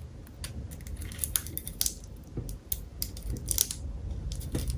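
Vintage Zippo lighter being handled, its hinged metal lid flicked open and snapped shut, giving sharp metallic clicks in several small clusters.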